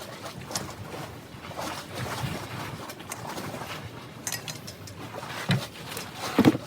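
Scattered clicks and knocks of tools and metal parts being handled while a yacht's binnacle is dismantled, over outdoor background noise, with a few louder knocks near the end.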